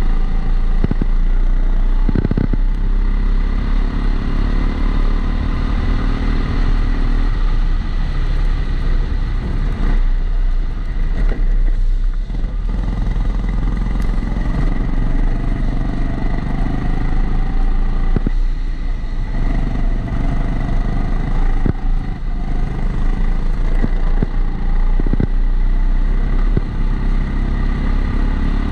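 Kombikart Eco kart engine heard onboard through a GoPro housing, climbing in pitch along the straights and easing off for corners a few times, with a steady high-pitched tone running underneath.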